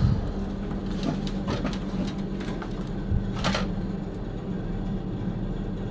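Electric vacuum pump running with a steady hum, pulling the remaining air out of a refrigerator's sealed pipework before it is charged with refrigerant. A few light clicks and a short rustle are heard over it.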